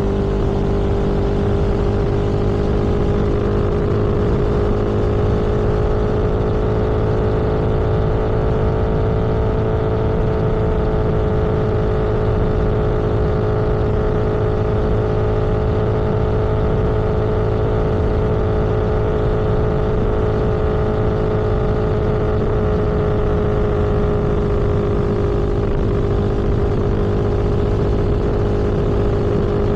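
Vehicle engine cruising at a steady road speed, a constant drone that drifts slightly higher and then lower, over steady wind and tyre noise.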